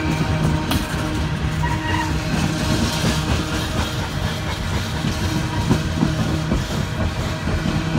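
Norfolk Southern freight train rolling past at close range: a steady loud rumble of cars with wheels clicking over the rail joints.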